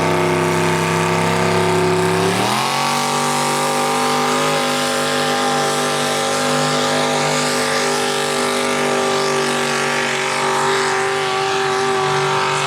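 Mini rod tractor puller's engine running at high revs. About two seconds in the revs climb sharply, then hold high and steady near full throttle, sagging slightly near the end.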